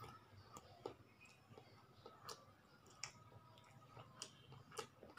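Faint, scattered wet clicks of chewing and lip smacking, a few every second or so, while eating rice mixed with soy sauce and cooking oil.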